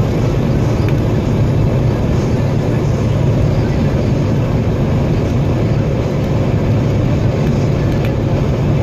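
Steady low rumble of a freight train of tank cars rolling past, with a few faint clicks from the wheels.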